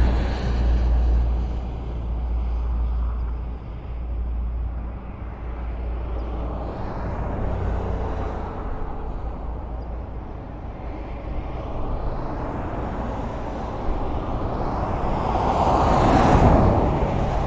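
Highway traffic: vehicles passing on the road with a steady rush of tyre and engine noise. A deep rumble dies away over the first few seconds, and near the end a vehicle passes close, swelling to the loudest point and fading.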